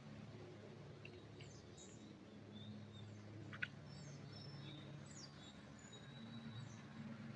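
Faint birdsong: scattered short high chirps and whistles from several birds, over a low steady hum, with one sharp tick about three and a half seconds in.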